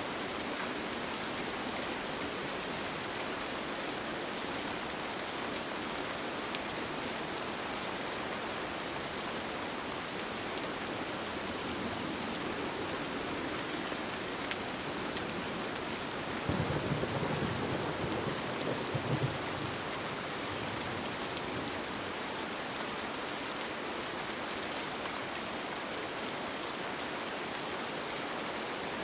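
Steady rain pattering on a tent. About halfway through comes a low rumble lasting about three seconds.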